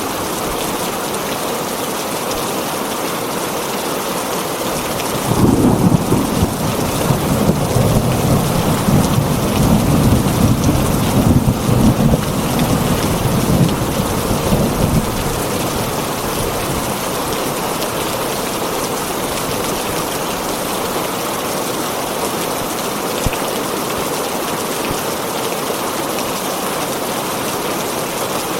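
Heavy rain falling on a tin roof, a steady hiss. About five seconds in, a roll of thunder rumbles for some ten seconds, then dies away under the rain.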